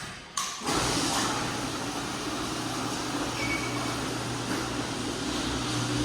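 Steady mechanical running noise with a low hum, starting abruptly about half a second in.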